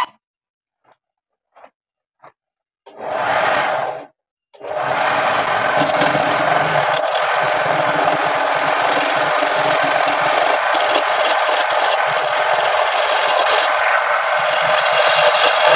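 Homemade wood lathe spinning a hollow piece of bamboo while a tool rubs against its surface: a steady, even rasping that starts about four and a half seconds in. Before that there is near silence, broken by a short rush of noise about three seconds in.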